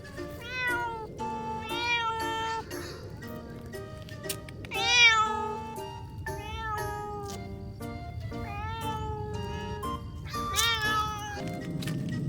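A cat meowing repeatedly, about six rising-and-falling meows a second or two apart, the loudest near the middle, over background music.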